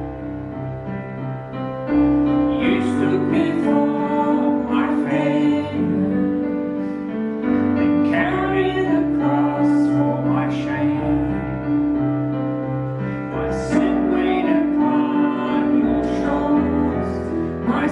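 Slow worship-song music led by piano chords over sustained keyboard tones, with a new chord struck every few seconds.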